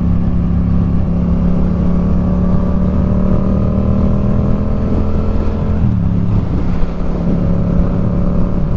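Motorcycle engine running steadily at low revs, its note shifting slightly about six seconds in.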